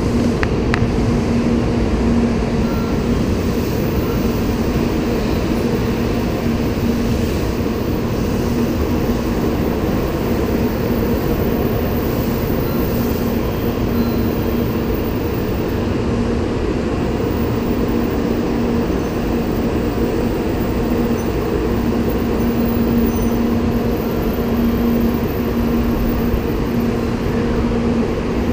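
Shinkansen N700A bullet train moving slowly along the platform track: a steady rumble of wheels and running gear with a constant low hum.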